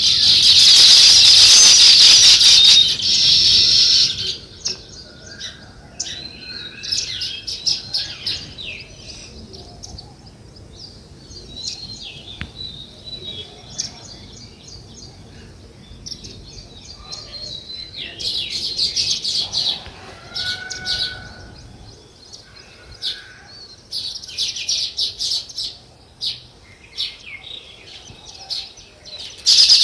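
A flock of small songbirds chirping: dense bursts of high chatter at the start, about two thirds of the way through and again at the very end, with scattered single chirps between.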